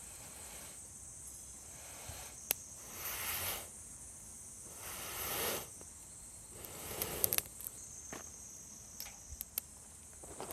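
Steady high-pitched drone of insects calling, with several longer rustling swishes and a scatter of sharp clicks from handling or movement close by.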